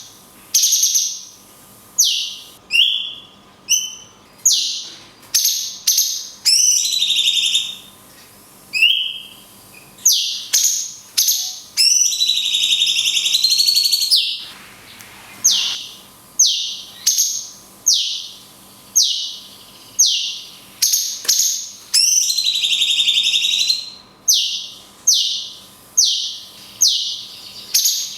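Cucak cungkok singing its 'kunti' shot call: loud, sharp whistled notes that fall in pitch, repeated about once a second. Twice the short notes give way to a long wavering note lasting about two seconds.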